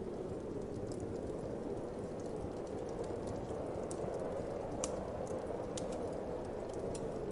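Fireplace crackling: scattered sharp pops and snaps, the loudest a little under five seconds in, over a steady low whoosh of wind.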